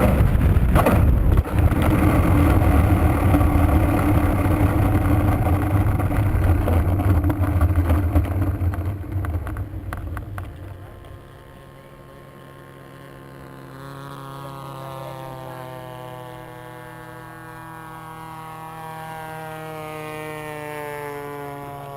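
Loud low rumbling noise for about ten seconds, then a quieter small engine drone whose pitch slowly falls.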